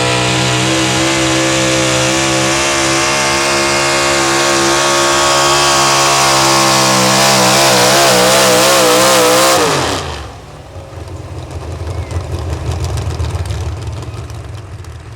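Four-wheel-drive pulling truck engine at full throttle under load, with a bright high whine and hiss; its pitch climbs slightly and wavers near the end. About ten seconds in the throttle is let off and the engine drops quickly to a lower, quieter rumble, as happens at the end of a pull.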